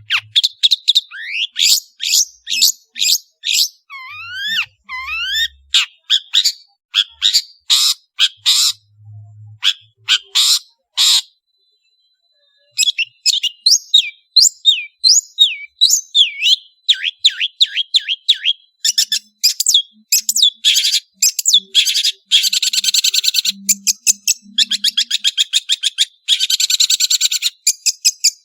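Long-tailed shrike (cendet) singing a rapid, varied song of sharp chirps, rising sweeps and trills, with a short pause about halfway. The song ends in fast, buzzy trilled phrases.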